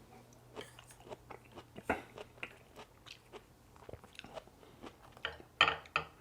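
Close-miked eating: a person chewing and biting, a run of short crunchy mouth sounds and clicks, the loudest a few bites shortly before the end.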